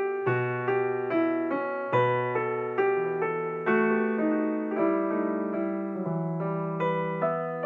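Calm, slow piano music: single notes struck one after another at an even pace, about two a second, each ringing and fading into the next over a sustained low note.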